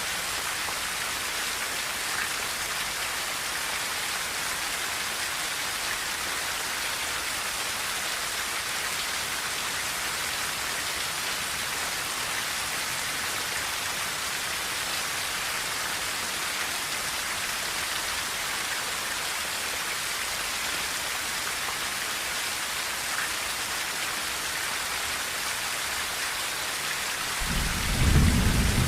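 Steady heavy rain pattering on a tin roof, and near the end a low rumble of thunder rises and grows loud.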